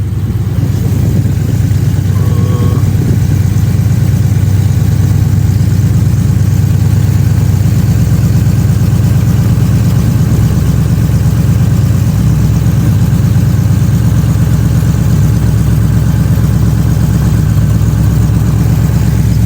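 Cammed Ford Crown Victoria's V8 engine running loud and steady, swelling slightly in the first second or two.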